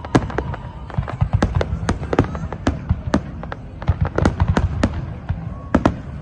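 Fireworks display: a rapid, irregular string of bangs and cracks, several a second, over a steady low rumble.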